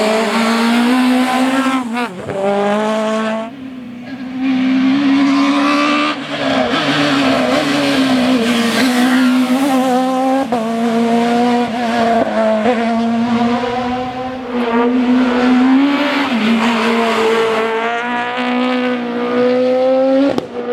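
Citroën Xsara rally car's four-cylinder engine running hard at high revs, its note rising and dipping through gear changes and lifts off the throttle, with tyre squeal.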